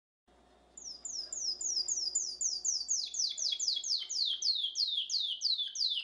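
A small bird chirping: a fast, even series of high falling chirps, about three a second. About halfway through, each chirp becomes longer and drops lower.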